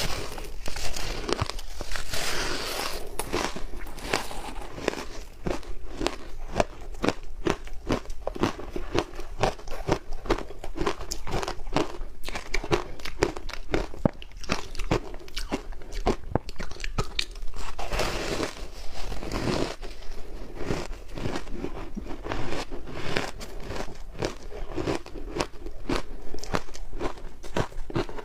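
Close-up crunching of ice being bitten and chewed, a dense run of sharp cracks and crunches, with louder bites about two seconds in and again near two-thirds of the way through.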